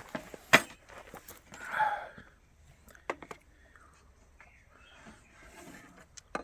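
Scattered sharp clicks and knocks. The loudest is a single knock about half a second in, followed by a short noisy rustle near the two-second mark and a few lighter clicks later.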